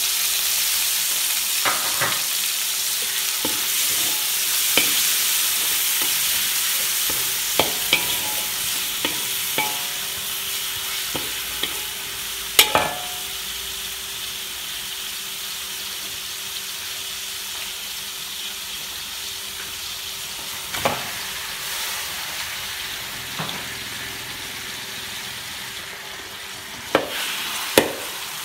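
Chopped red onion and garlic sizzling in oil in a metal wok, stirred with a metal spoon that scrapes and clicks against the pan. The sizzle slowly fades, with sharper knocks of the spoon on the wok about halfway through and near the end.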